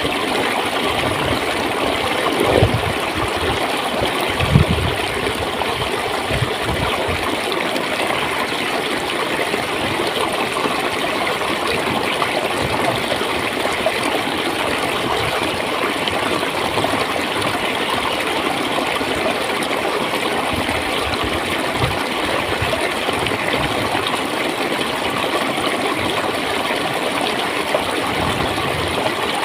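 Water flowing steadily over stones, a constant rush with occasional low gurgles and splashes, the most noticeable a few seconds in.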